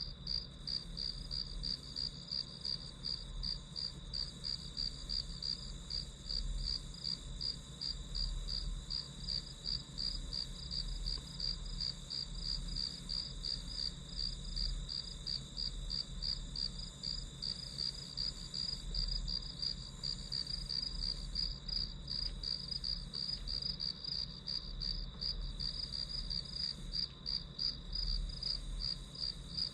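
Crickets chirping steadily, a continuous even train of high-pitched pulses.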